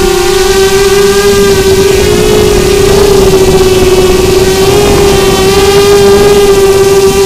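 Brushless motors of a QAV250 racing quadcopter whining at a steady pitch that wavers slightly with throttle, over a low rushing noise.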